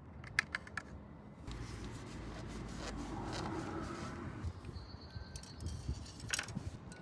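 Motor oil pouring through a makeshift funnel cut from a plastic water bottle into a motorcycle engine's oil filler, running steadily for about three seconds. Light plastic clicks and taps from handling the bottle and funnel come before and after the pour.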